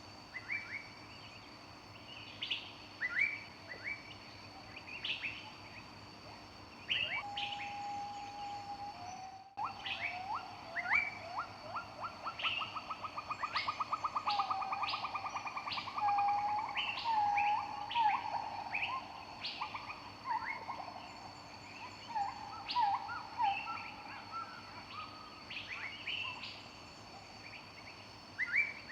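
Several forest birds chirping and singing: many short, quick chirps throughout, a single held whistled note about seven seconds in, then a long rapid trill running for several seconds. Faint steady high-pitched tones sit underneath.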